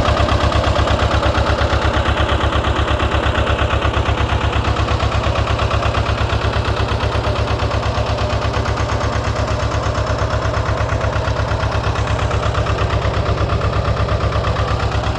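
Lister ST2 two-cylinder air-cooled diesel engine running steadily at idle, with an even, rapid beat.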